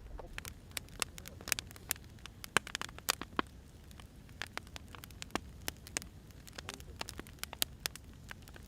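Firewood burning, with irregular sharp crackles and pops over a low steady rumble of the fire.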